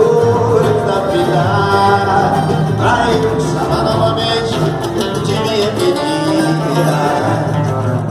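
Band playing an instrumental passage of a Brazilian romantic song.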